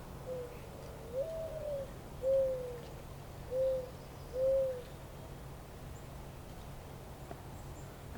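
A bird's low hooting coo: one phrase of about five notes in the first five seconds, the second note the longest, then it stops. A faint steady low hum runs underneath.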